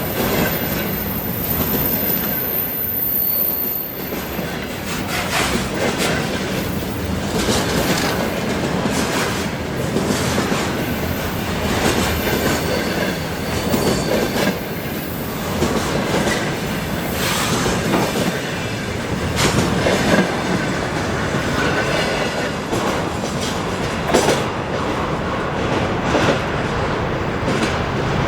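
A freight train's wagons rolling past, wheels knocking irregularly over rail joints, with a high wheel squeal in the first few seconds.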